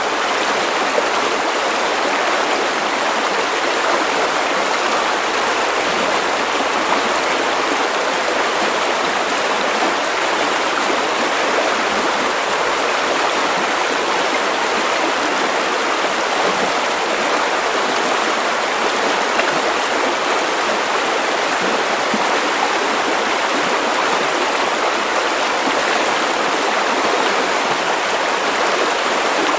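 River water running over stones: a steady, continuous rushing and babbling flow.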